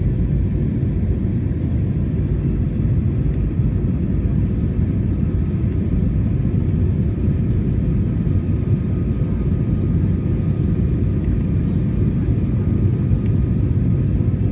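Airbus A321 cabin noise in flight during descent: a steady, even rumble of engines and airflow, with a faint steady hum above it.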